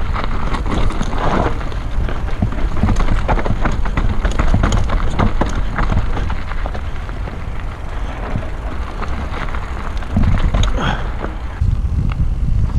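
Mountain bike descending a rough trail: wind buffeting the microphone, with rapid clattering and knocks from the bike and tyres over rocks and roots.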